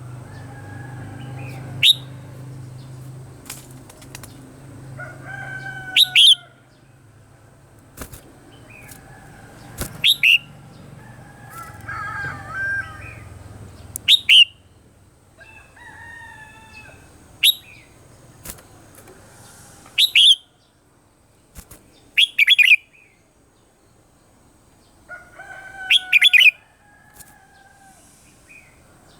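Red-whiskered bulbul singing: short, loud, bright phrases about every two to four seconds, with softer warbling in between and a few sharp clicks.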